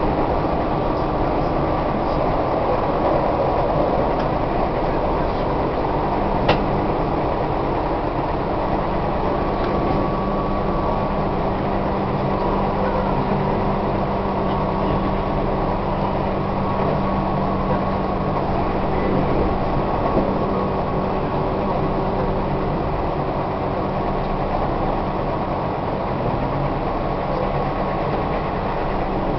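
Tobu 1800 series electric train running at speed, heard inside a passenger car: a steady rumble of wheels on rail with a motor and gear hum. A single sharp click comes about six and a half seconds in.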